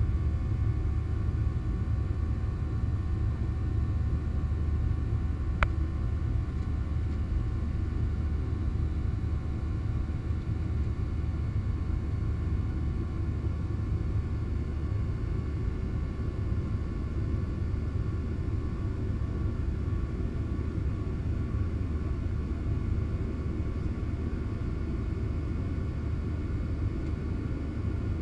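Steady low rumble of a Boeing 737-700 in flight: the noise of its CFM56-7B engines and the airflow, with a few faint steady tones over it. A single sharp click comes about five and a half seconds in.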